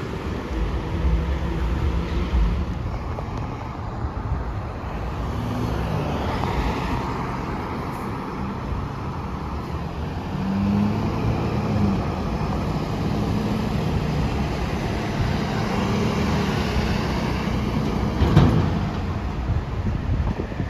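Heavy trucks' diesel engines running past on a road, their pitch shifting as they accelerate and change gear, amid traffic noise. A short, sharp sound stands out near the end.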